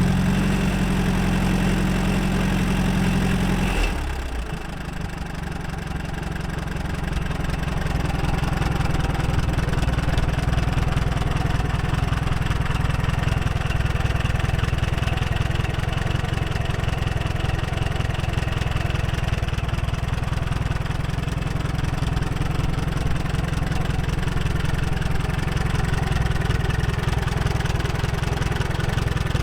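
1951 Allis-Chalmers Model B tractor's four-cylinder gasoline engine running at a steady idle. About four seconds in the sound drops and changes, then builds back up over the next few seconds and runs steadily again.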